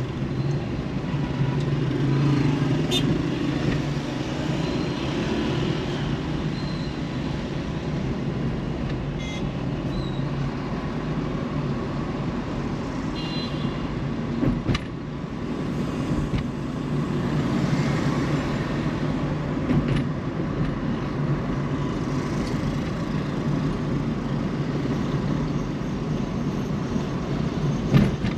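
Car driving through city traffic: steady engine and road noise mixed with the noise of surrounding traffic, with a few brief higher-pitched sounds over it.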